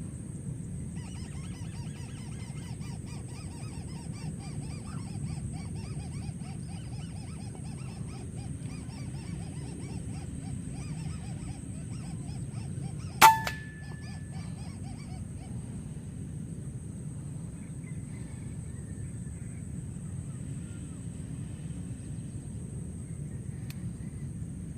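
A single sharp PCP air-rifle shot about halfway through, the loudest sound, with a brief ring after it. It comes over a steady low rumble and a fast run of repeated animal calls that fades out just after the shot.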